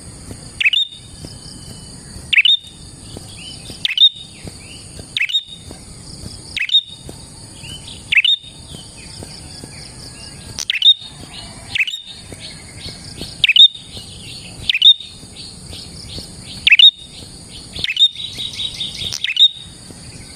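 Prinia (prenjak) calling in a lure recording: loud, sharp, downward-sweeping chirps repeated about every second and a half, breaking into a rapid chattering trill near the end.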